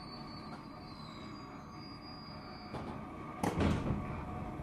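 Cabin running noise of a JR 205-series electric train car (motor car with MT61 externally fanned traction motors) rolling steadily between stations. A thin high squeal fades out about two-thirds of the way through, and a short, loud clatter comes about three and a half seconds in.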